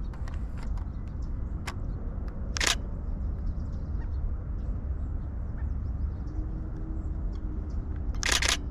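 Camera shutter firing in short rapid bursts, once near three seconds in and again near the end, with a few single clicks before, over a steady low rumble.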